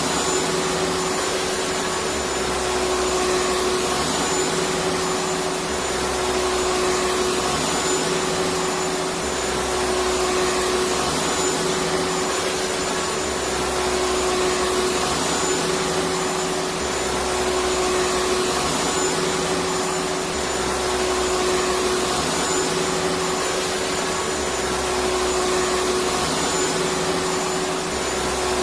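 Electric vacuum cleaner running steadily: a loud rush of air with a constant hum, under which a low drone comes and goes about every three seconds.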